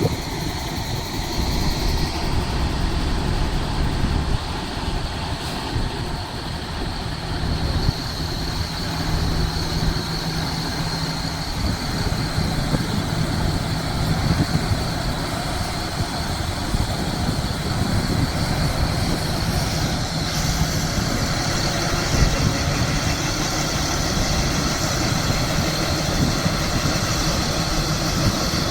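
An engine running steadily: a continuous low rumble with a droning hum that fades in and out.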